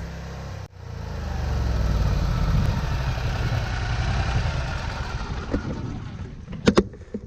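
Stump grinder running: its engine builds up over the first couple of seconds and holds steady while the cutter wheel chews into a stump, then eases off near the end. Two sharp cracks come just before the end.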